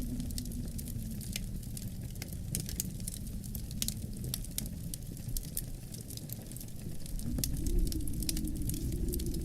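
Wood fire crackling with many small sharp pops, over a low, moaning wind. About seven seconds in the wind gusts louder and its pitch rises.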